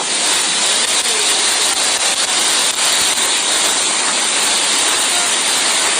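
Typhoon-force wind blowing steadily: a dense, unbroken rushing noise.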